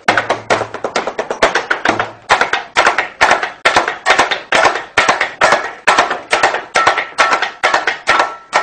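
Hand percussion played on kitchen utensils, including a large aluminium cooking pot struck by hand, in a fast steady rhythm of sharp strikes about four a second.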